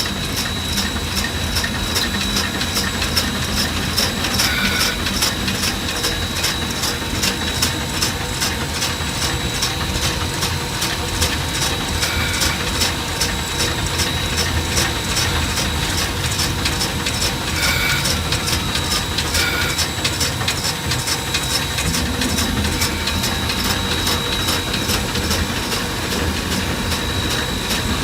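Three-truck superheated Shay steam locomotive running, heard from its cab: steady mechanical running noise with a rapid, even beat, and a few short tones now and then.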